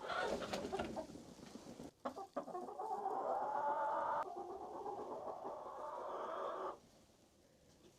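Hens in the coop clucking and calling among themselves, busy and irregular. The sound cuts off abruptly about 7 seconds in.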